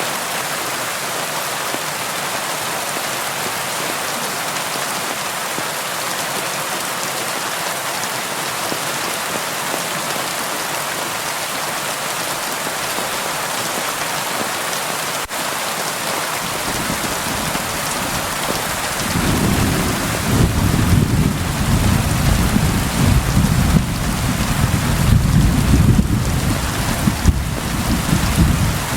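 Steady rain falling on a window. About two-thirds of the way through, a long low rumble of thunder builds and rolls on, swelling and fading unevenly, for the last ten seconds or so.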